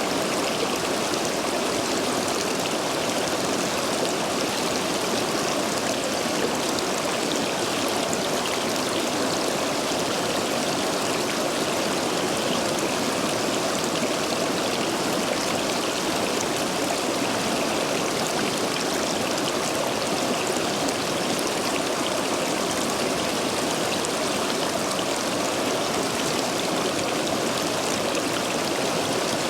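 Stream water rushing steadily through and over a row of stepping stones, the stream running full after heavy rain.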